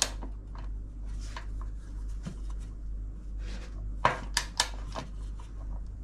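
Handling noises of washing-machine motor parts being fitted: light clicks and rubbing, with three sharp knocks about four seconds in, over a steady low hum.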